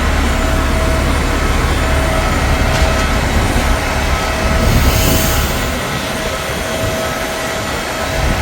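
Steady cabin ambience inside a parked Boeing 737-800: a deep rumble with a faint steady hum from the air-conditioning running on the ground, and a short hiss about five seconds in. The rumble eases off near the end.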